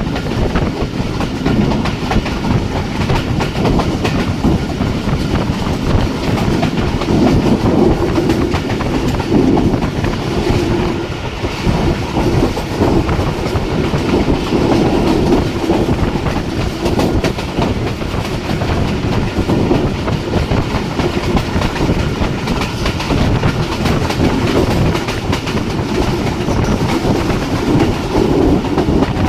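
Passenger train running along the track at speed, a steady loud rumble with wheels clattering over the rail joints.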